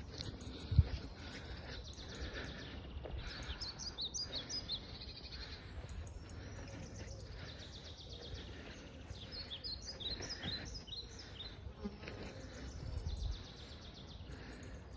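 Birds chirping in short bursts of song, twice, over a low rumble. A single sharp knock comes about a second in.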